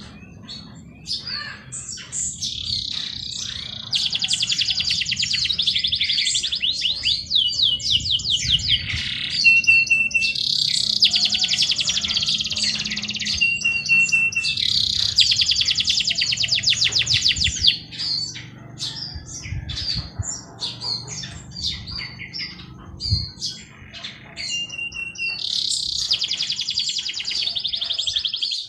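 Songbirds singing: a bird gives long, rapid trills of a few seconds each, repeated several times, with short chirps and a thin whistled note from other birds between them.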